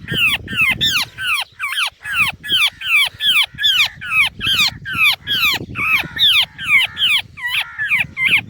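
A trapped bird calling over and over, about three short downward-sliding cries a second: distress calls of a bird caught in a noose trap.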